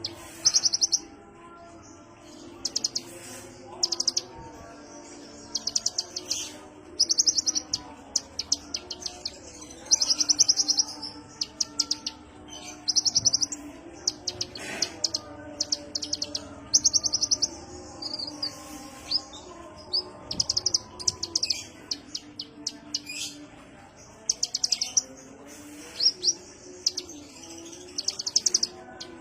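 Kolibri ninja (konin) sunbird singing: a string of fast, high chattering trills, each about half a second to a second long, repeated every second or two.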